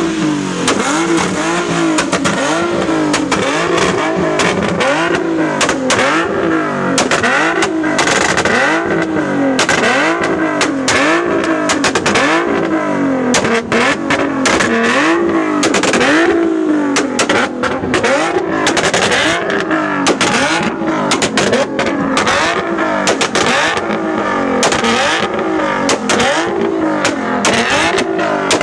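Car engines revving over and over, the pitch swinging up and down about once a second, with more than one car going at once and sharp pops and cracks mixed in.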